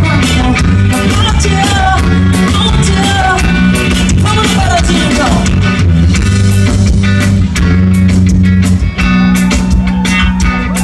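Live band playing loudly: a singer over steady bass and drums.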